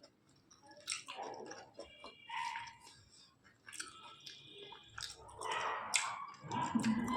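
Close-up chewing of a mouthful of rice and chicken curry, with short sharp mouth clicks in an uneven run.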